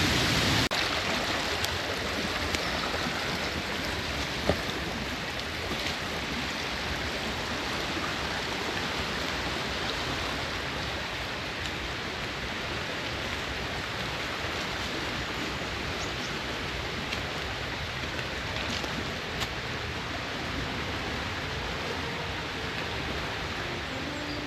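Steady rush of flowing water from a stream, with a couple of sharp ticks. A louder rush cuts away under a second in.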